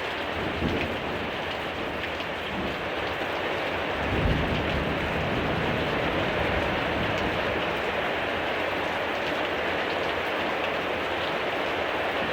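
Heavy rain pouring down in a steady, dense hiss, with a brief low rumble about four seconds in.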